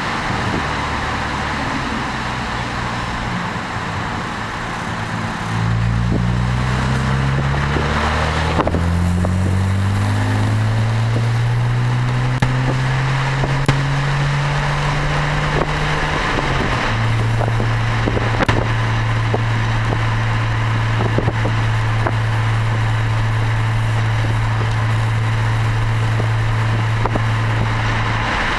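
Exhaust note of a BMW 335i's turbocharged straight-six through an Eisenmann Race exhaust. After a few quieter seconds the engine pulls, its drone rising in pitch, drops at a gear change about eight seconds in and climbs again. It then settles into a steady drone at cruise from about seventeen seconds on.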